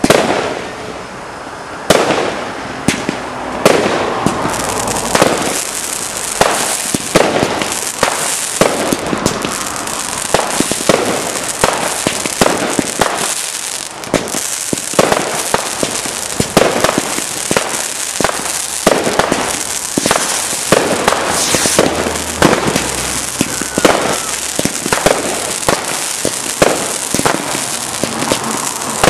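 Category 2 and 3 consumer fireworks going off in a rapid barrage. A sharp bang opens, another follows about two seconds in, and from about four seconds on the bangs and crackle of aerial bursts come almost without pause.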